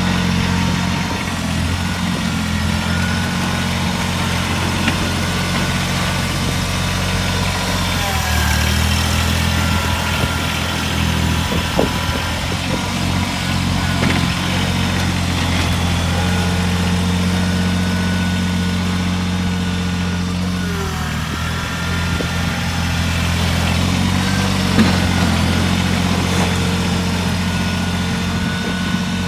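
Kubota BX2380 sub-compact tractor's three-cylinder diesel engine running steadily while plowing snow, its note shifting as engine speed changes about eight seconds in and again around twenty-one seconds, with a few faint knocks.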